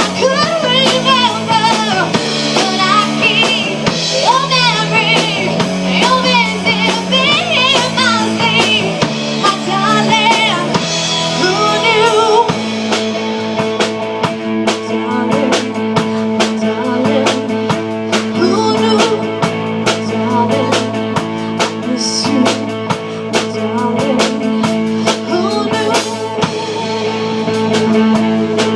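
A rock band playing a song: a singer's vocal over guitar, bass and drums for about the first twelve seconds, then an instrumental passage led by guitar over a steady drum beat.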